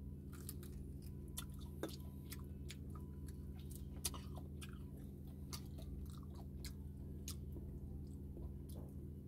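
Close chewing and biting of crispy deep-fried pork knuckle (crispy pata), with many short crunchy crackles from the crisp skin throughout.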